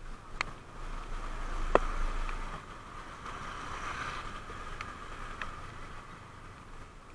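Motorcycle riding in the rain: a steady hiss of wind and wet road with a low rumble, and a few sharp ticks scattered through.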